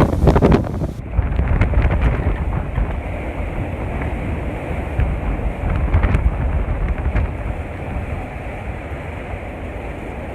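Hurricane-force wind, a steady heavy rushing roar with gusts buffeting the microphone in the first second and a few faint knocks later.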